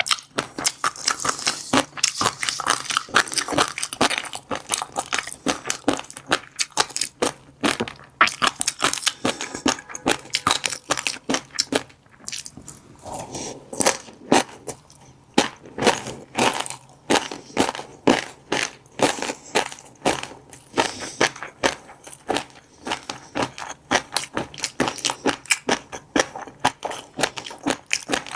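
Close-miked chewing of fish roe, the eggs crackling as they are bitten in rapid, dense clicks. A short softer stretch comes about twelve seconds in.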